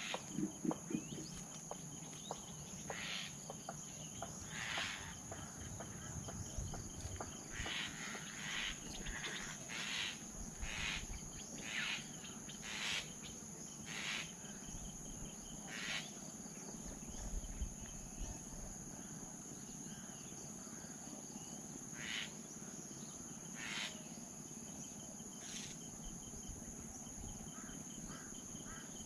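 Steady high-pitched insect drone of crickets, with short, irregular bird calls over it that come thickest in the middle stretch.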